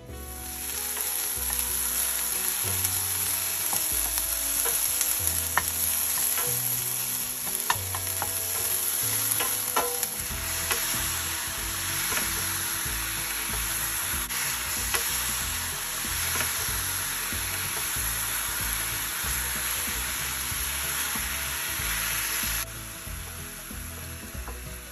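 Raw chicken pieces frying and sizzling in a hot stainless-steel pan, with a few sharp clinks of a utensil stirring. The sizzle drops suddenly in level near the end.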